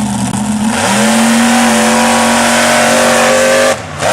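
Monster truck engine running hard at high revs; its pitch steps up about a second in and holds steady, then drops away briefly just before the end.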